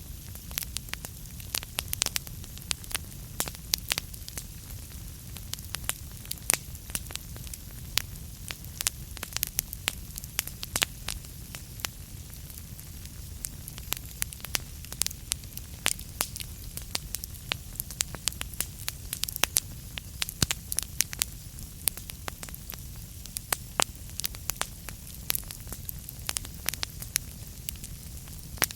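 Wood fire burning in a fireplace, with frequent irregular crackles and pops of burning logs over a steady low rumble of the flames.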